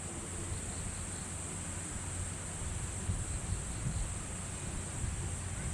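Outdoor ambience: uneven low wind rumble on the microphone under a steady high-pitched hiss.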